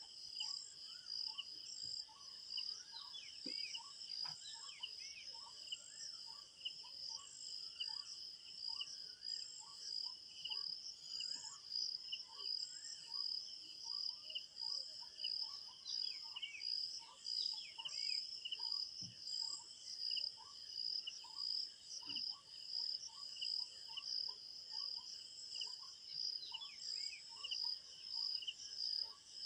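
Crickets chirping in a steady fast pulsing trill, with birds calling over them: a short note repeated more than once a second, and now and then a higher, downward-sweeping call.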